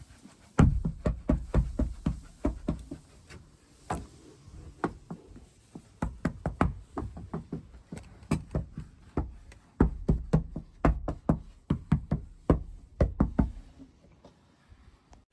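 Repeated knocking and tapping in irregular quick runs, several knocks a second, with short pauses between runs.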